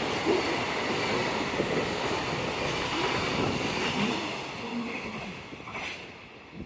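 Electric train running along the station track, a steady rumble of wheels on rail with some faint wheel squeal, fading over the last couple of seconds as it moves away.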